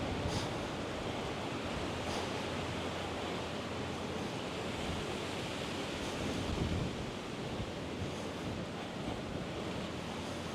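Steady rushing wind noise on the microphone, with no distinct events.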